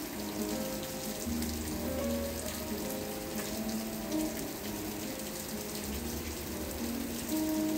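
Steady rain, a continuous hiss of falling water with fine pattering, under soft background music of held notes and a low bass note that comes and goes.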